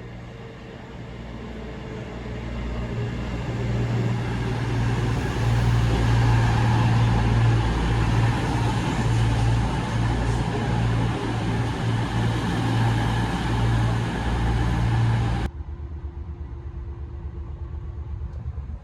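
Class 220 Voyager diesel multiple unit pulling into a station platform: the steady low drone of its underfloor diesel engines grows louder over the first few seconds as it approaches, then holds loud. It cuts off suddenly near the end to a quieter hum.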